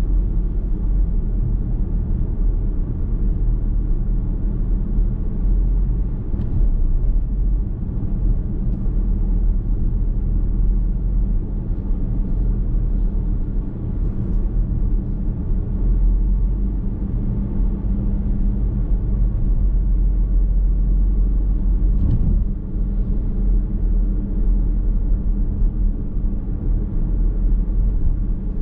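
Car driving at a steady pace, heard from inside the cabin: a continuous low rumble of tyres and engine with a few faint knocks, one a little louder about 22 seconds in.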